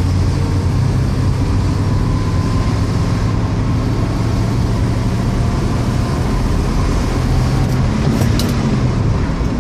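1967 AMC Rebel driving along in second gear, its engine and road noise a steady drone with no clunking from the transmission. Near the end the engine note bends briefly and there is a short click.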